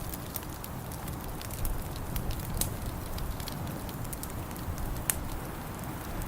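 Wood fire crackling in a fireplace: scattered sharp pops and snaps, one louder pop about five seconds in, over a steady low rumble.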